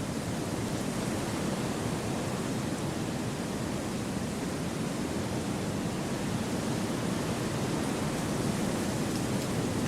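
Steady wind through forest trees: an even, unbroken rushing with no distinct gusts, birds or other events.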